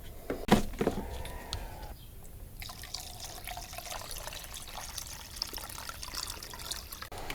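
Paint being mixed: liquid pouring and dripping into a mixing cup, with a sharp knock about half a second in and many small clicks and taps of the cup and stirrer.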